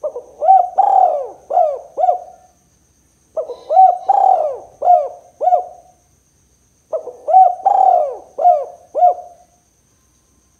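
Spotted dove (tekukur) cooing: three phrases of several arching coos each, about two and a half seconds long, with short pauses between.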